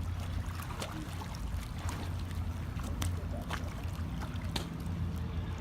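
Pool water splashing and sloshing around someone balancing on a rope in the water, with scattered short splashes over a steady low rumble.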